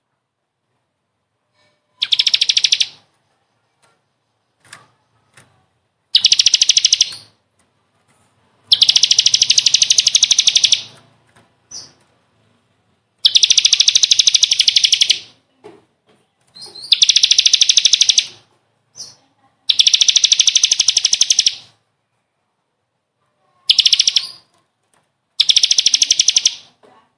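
A songbird singing in eight bursts of rapid trilled notes, each lasting one to two seconds or so, with a few faint short chirps in the gaps between them.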